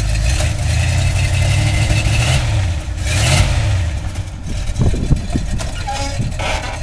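Oldsmobile 455 big-block V8 revved: the pitch rises over the first couple of seconds, rises again briefly about three seconds in, then drops back toward idle.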